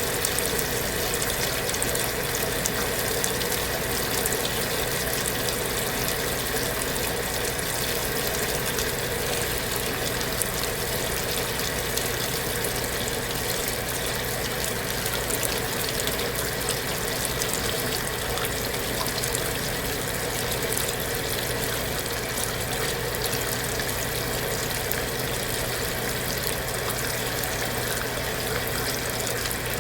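Kenmore belt-drive portable washing machine running steadily, water rushing through it over a constant motor hum.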